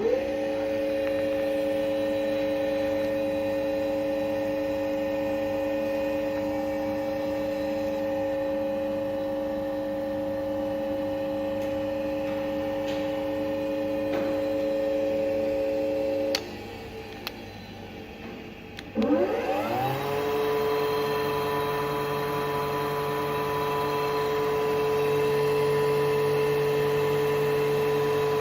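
Ixion BT 6 bench drill's AEG electric motor switched on and running up to a steady whine. About 16 s in it switches off and runs down; about three seconds later it starts again with a rising whine and runs steadily at a slightly lower pitch with a deeper hum beneath.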